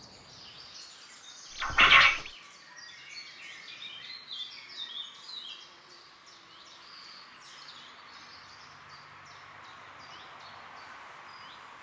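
Small birds chirping, with many short quick chirps about two to six seconds in that grow sparse afterwards. One loud, short, rushing burst of noise comes about two seconds in.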